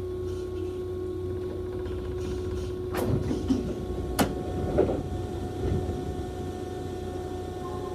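Station platform ambience: the steady electrical hum of a stopped electric train, with two sharp clicks and a few softer knocks about three to five seconds in. A steady chime tone starts partway through.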